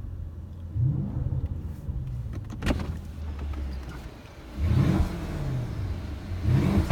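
Mercedes-Benz S500's 4.7-litre petrol V8 murmuring at idle, heard from inside the cabin, its pitch rising and falling briefly a few times. A single sharp click a little before the middle.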